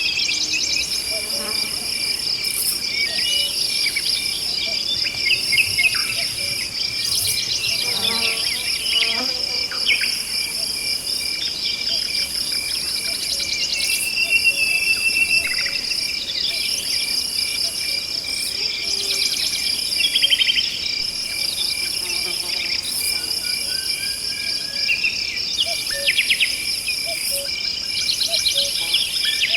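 Forest ambience: a steady chorus of insects trilling, with a higher buzz that pulses on and off every couple of seconds and scattered bird chirps.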